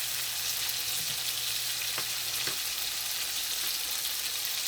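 T-bone steaks frying slowly in butter and garlic: a steady, even sizzle with a few faint pops.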